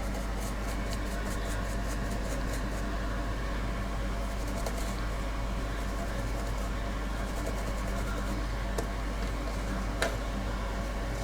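Steady low electrical hum from the workbench, with quick light scratching over the first few seconds as a laptop mainboard is scrubbed clean of flux and residue, and one sharp click about ten seconds in.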